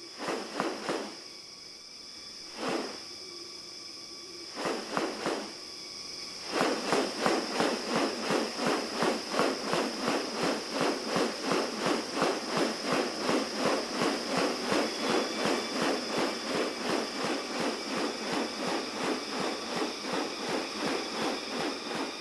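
Rainforest sound: a steady high insect drone, with a few short bursts in the first six seconds, then a fast, regular pulsing of about three pulses a second that carries on to the end.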